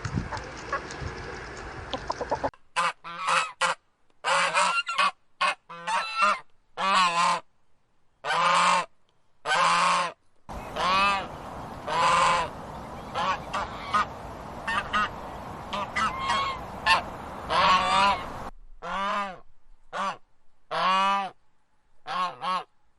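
Geese honking: a long series of short, repeated honks, with the recording changing twice along the way. The first couple of seconds hold a different, noisier sound before the honking begins.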